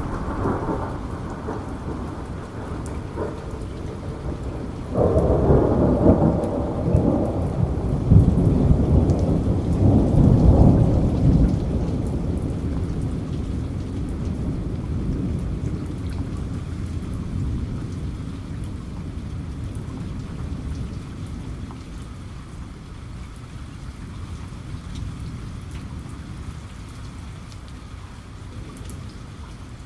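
Steady rain with a roll of thunder that breaks in suddenly about five seconds in, rumbles loudest a few seconds later, and slowly dies away, leaving the rain alone.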